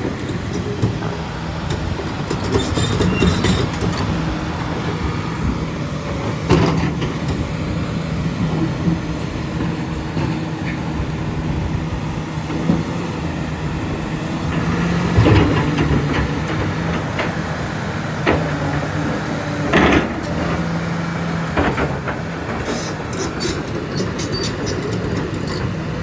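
Heavy diesel engine of a Sany SY365H excavator running steadily, with a few sharp knocks or clanks now and then.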